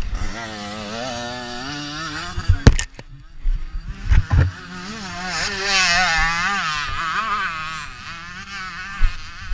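Motocross bike engine running with its pitch repeatedly rising and falling as the throttle is worked. A sharp knock comes near the start, and a few dull thumps follow shortly after.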